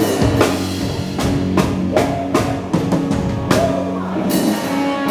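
Live band playing a dance song, with a drum kit keeping a steady beat under bass and keyboard.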